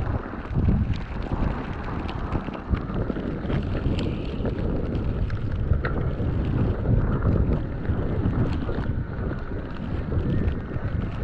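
Wind buffeting an action camera's microphone during an e-bike ride through snow: a steady, loud low rumble that swells and eases in gusts, with a few small clicks scattered through it.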